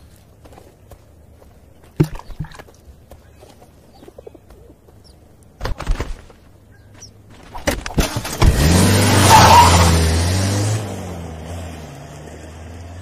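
A car engine starting up with a loud burst of revving, then settling to a lower steady running note; a few sharp knocks come before it.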